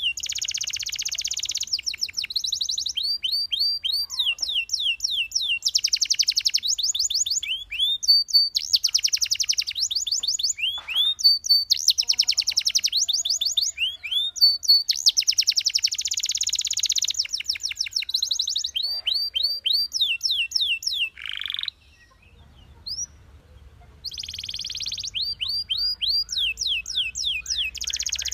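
Canary singing a high, continuous song of fast trills and rapidly repeated down-slurred notes, with a pause of about two seconds a little past two-thirds of the way through.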